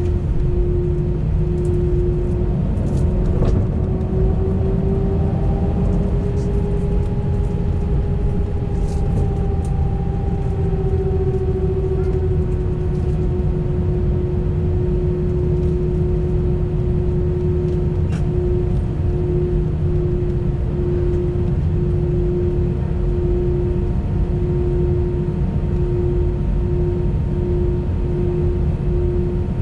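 Cabin noise of an Airbus A320 under takeoff or climb power: a loud, steady rumble of the engines and airflow, with an engine hum whose pitch rises slightly a few seconds in and settles back.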